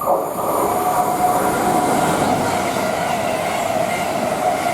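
Two coupled Class 221 Super Voyager diesel-electric multiple units, each car with its own Cummins diesel engine, running through the station close by. There is a steady engine and rail rumble with a steady high whine above it, and it comes in suddenly at the start.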